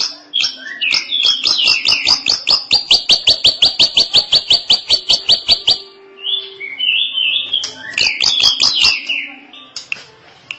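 Drongo singing a long, varied song: whistled phrases, then a fast even run of sharp notes, about ten a second for some three seconds, then more whistled phrases that fade near the end.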